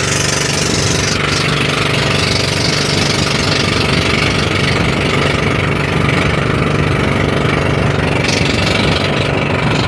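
Pump boat's engine running steadily underway, an even, continuous drone.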